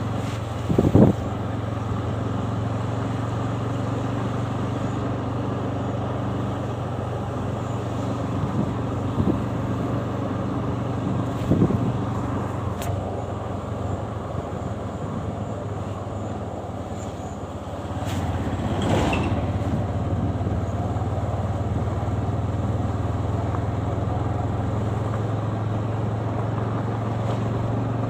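Motorcycle engine running at a steady pace while riding, over a steady rush of wind and road noise. A few short louder thumps come through, the loudest about a second in. About two-thirds through, the sound dips briefly and then picks up again.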